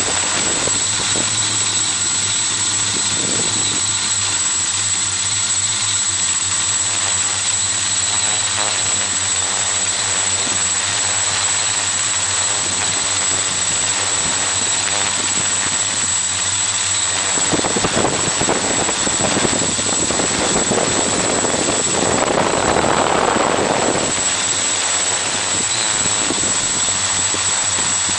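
XAircraft X650 quadcopter's electric motors and propellers whirring steadily, heard close up from the camera carried on the craft. A louder rush of noise rises over it for several seconds about two-thirds of the way through.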